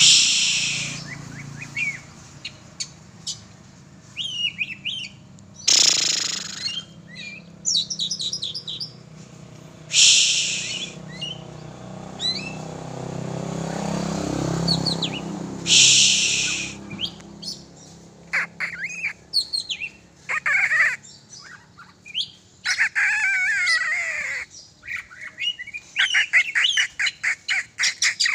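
Oriental magpie-robin (kacer) singing: fast, varied whistled phrases and rapid repeated notes, busiest in the second half. Several loud, short hissing bursts break in, about one every four to six seconds in the first half.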